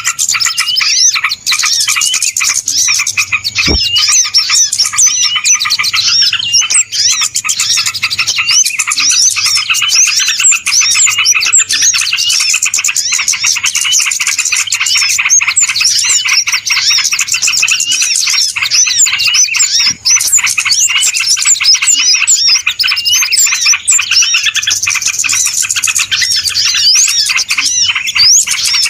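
A dense, busy chorus of many small birds chirping and twittering at once, with quick rising and falling calls overlapping without a break. It is a loud bird-lure (pikat) recording of noisy birds, made to draw wild birds in.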